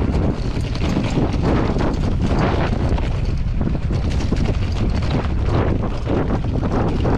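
Strong wind buffeting the microphone, a loud, continuous rumble that swells and dips with the gusts.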